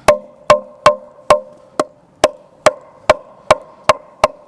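Hammer driving a nail: ten even blows, about two a second, each with a short metallic ring.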